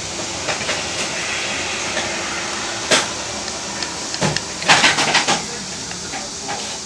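A few short knocks and clatters over a steady background hiss: one sharp knock about three seconds in, then a quick run of knocks a little later.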